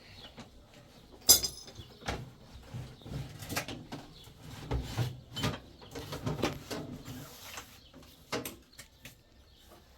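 Scattered knocks and clatter of things being handled, with one sharp clink about a second in.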